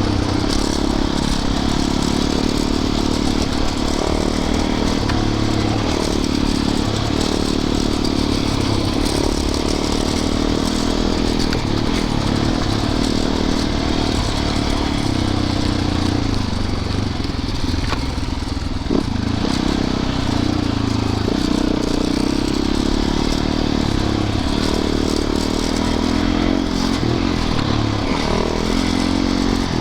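Yamaha YZ450FX dirt bike's single-cylinder four-stroke engine running under way, its note rising and falling with the throttle.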